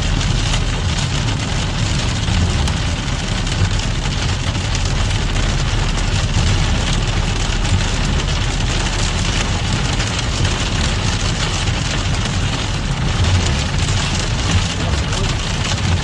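Heavy rain falling: a steady hiss of rain with a continuous low rumble underneath.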